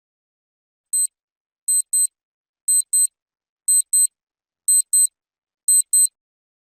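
High-pitched electronic beeping in the manner of a digital alarm clock or timer: a single beep about a second in, then five quick double beeps about a second apart.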